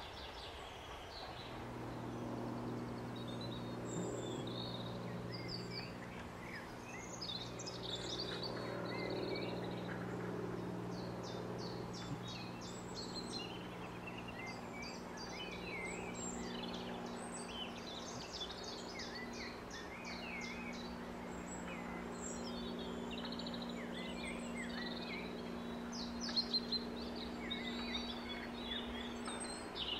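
Several birds chirping and singing, busy short calls throughout, over a faint steady low hum.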